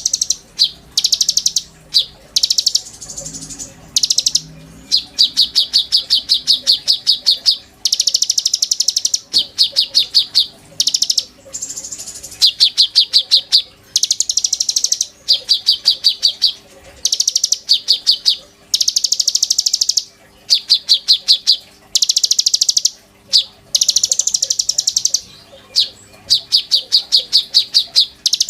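Konin bird singing in fast, high trills: rattling phrases of a second or two, one after another with short breaks.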